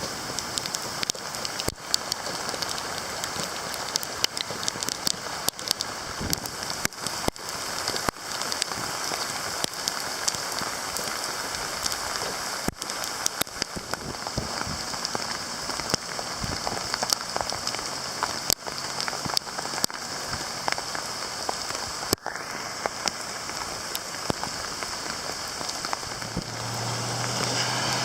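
Steady rain falling, with many sharp drops hitting nearby surfaces. A low hum comes in near the end.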